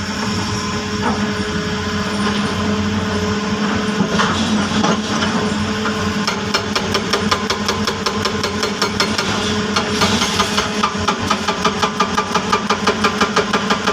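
Heavy machine's diesel engine running steadily. About halfway through, a rapid, even knocking joins it and settles at about five knocks a second.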